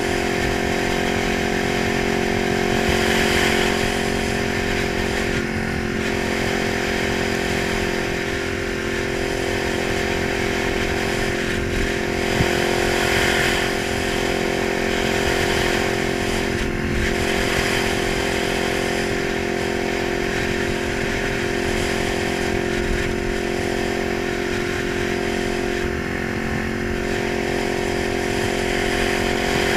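Kawasaki 900 motorcycle engine running at a steady, even pitch, with a few brief swells.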